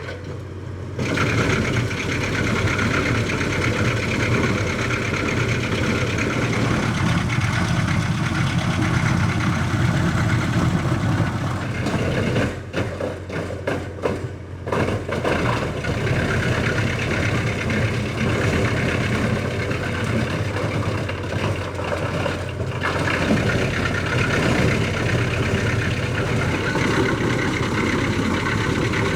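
Tractor running a REMET RT-630R disc wood chipper, a steady machine drone with a constant low hum, dipping briefly a few times about halfway through.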